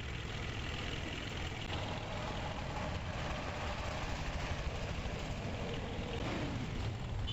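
Steady background road traffic, with motor vehicle engines running and no single distinct event.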